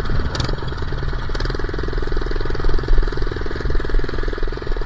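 A minibike's small engine running as it is ridden, a steady rapid putter of firing pulses.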